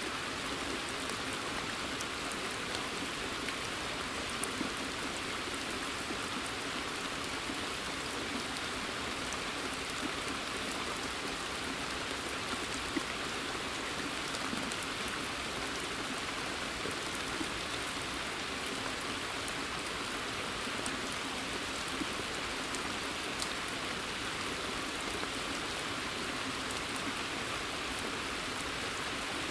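Steady rain falling in woodland onto a pond's surface and leaves, an even hiss with scattered single drops standing out as small ticks.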